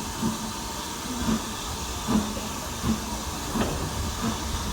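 Steam hissing from the BR Standard Class 9F steam locomotive, with soft low thuds roughly once a second.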